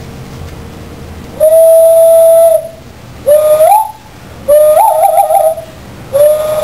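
Whistled bird call, loud, four calls. The first, about a second and a half in, is a long steady note. The next two are shorter notes that step up in pitch, and the third of these warbles. The last is a shorter steady note near the end.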